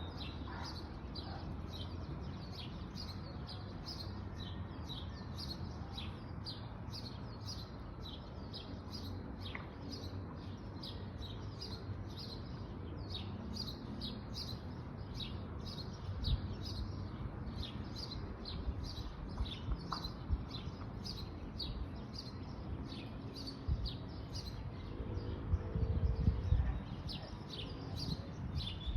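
A bird chirping over and over, short falling chirps about twice a second, over a steady low rumble, with a few dull thumps in the second half.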